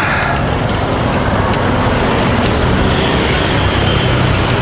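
Steady street traffic: motor vehicles running along the road, a continuous rush of noise with a low engine hum.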